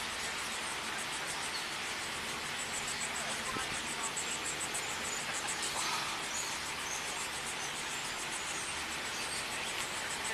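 Insects chirping in a quick even rhythm, several pulses a second, over a steady outdoor hiss.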